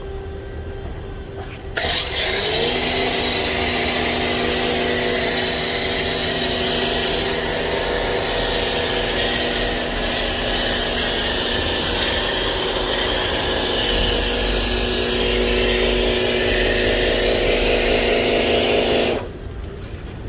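Karcher K2 cordless pressure washer spraying snow foam through a foam lance: the motor and pump start suddenly about two seconds in and run steadily with a whine over the hiss of the spray, dip briefly near the middle, then cut off abruptly about a second before the end.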